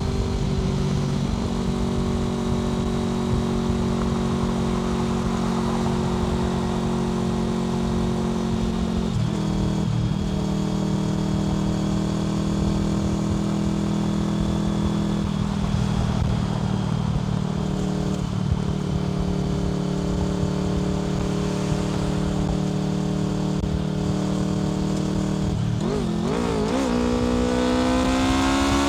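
Honda VFR800 FI V4 engine through a Black Widow aftermarket exhaust, running at a steady cruise with a few changes in pitch as the throttle or gear changes. Near the end it revs up as the bike accelerates.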